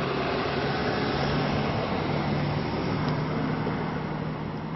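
Tobu 10030-series commuter train cars rolling past at close range: a steady rumbling noise with a low hum running through it. It swells in the middle and eases slightly near the end as the cars go by.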